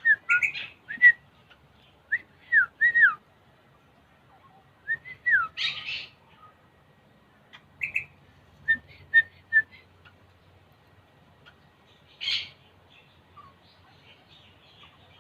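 Eastern rosellas calling: short phrases of clear, swooping whistled notes, broken by a few harsher, scratchier calls around six seconds in and again near twelve seconds. A run of quick short piping notes comes around nine seconds.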